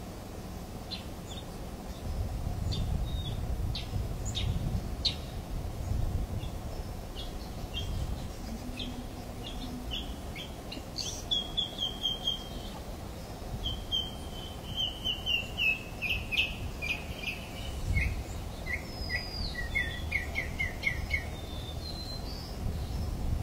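Wild birds calling: scattered short chirps, then from about ten seconds in several quick runs of repeated notes, over a low rumbling background.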